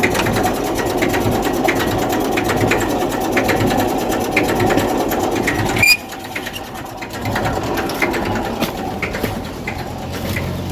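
1990 Massey Ferguson tractor's diesel engine running with a steady clatter, then cutting off abruptly about six seconds in, after which only faint ticks and rustles remain.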